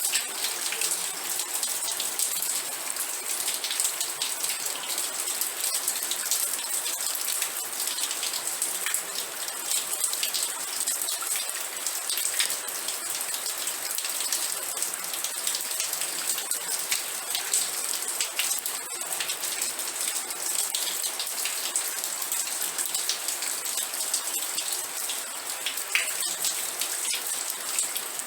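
Steady rain falling and pattering on a surface, a dense even hiss of many drop ticks with no let-up.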